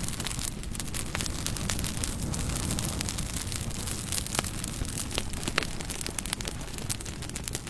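Bonfire burning: a steady low rumble of flames with frequent irregular crackles and sharp pops of burning wood.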